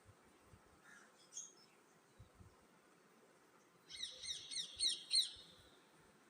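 Parrot calling: a quick run of about eight sharp chirps, each sliding down in pitch, lasting just over a second, with a couple of faint chirps earlier.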